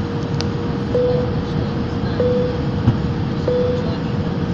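Passenger airliner cabin noise in flight: a steady engine and airflow roar, with a steady mid-pitched hum that swells briefly about every second and a quarter.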